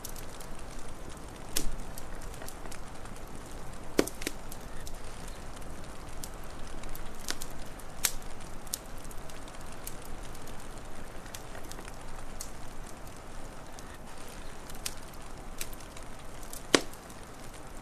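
Wood fire crackling: a steady low hiss with scattered sharp pops and snaps, two louder pops about four seconds in and near the end.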